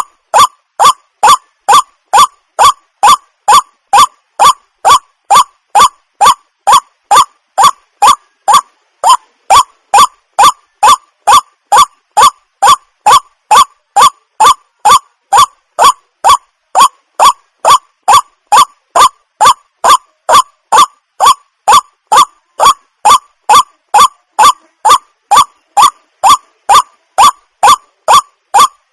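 Waterhen call repeated over and over at an even pace, about two short calls a second, each a quick rising note.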